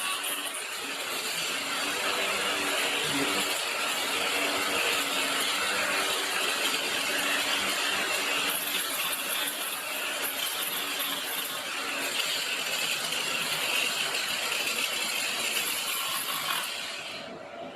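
Cordless mini angle grinder grinding leftover nickel strip off the ends of used 18650 lithium-ion cells: a steady, harsh grinding hiss over the motor's hum, which stops near the end.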